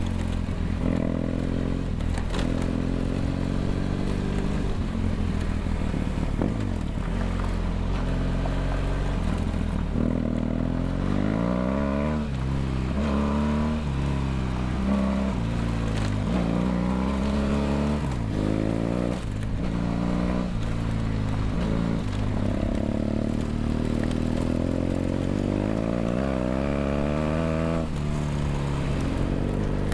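BMW F800GS parallel-twin engine through a LeoVince LV ONE EVO stainless exhaust, heard onboard while riding. Its revs repeatedly climb and drop as the throttle is opened and closed.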